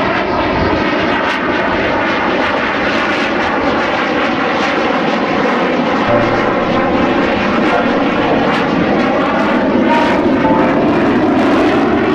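Aircraft engine noise from a fixed-wing plane flying past, loud and steady.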